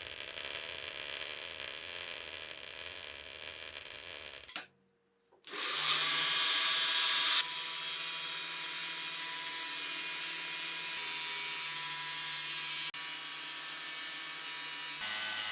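Electric power tool, such as a drill or rotary tool, running steadily at rest-of-rust-removal work, in several edited stretches. After a brief silent gap about five seconds in, the motor spins up and runs loud and even, holding a steady whine.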